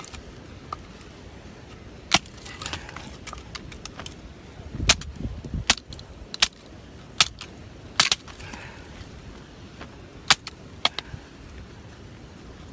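Irregular sharp clinks and knocks, about eight in all, spread across the dozen seconds over a low steady background rumble.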